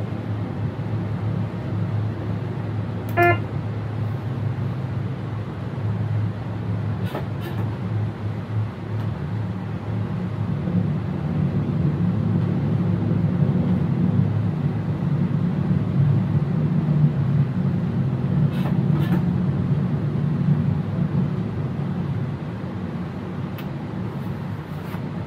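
Electric passenger train running at speed, heard from inside the driver's cab: a steady low rumble, with a few faint clicks and one short, high beep or toot about three seconds in.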